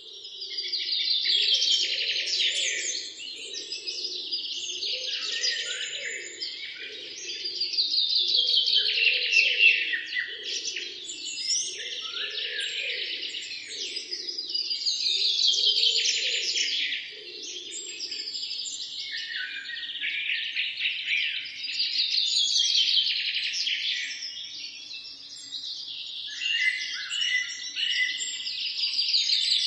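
Dense chorus of many birds chirping and trilling, swelling and easing roughly every seven seconds, with a fainter low pulsing call underneath that fades out about two-thirds of the way through.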